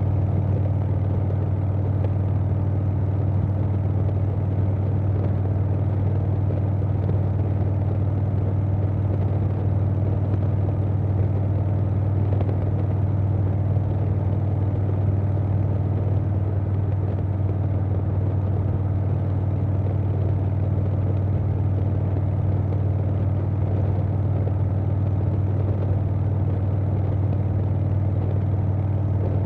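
2020 Harley-Davidson Softail Standard's Milwaukee-Eight V-twin, fitted with a Vance & Hines Big Radius 2-into-2 exhaust and an Arlen Ness air cleaner, running steadily with an even, deep exhaust note and no revving.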